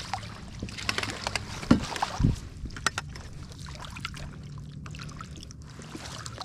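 Scattered knocks and clicks of gear and a fish being handled on a kayak, over a low steady hum.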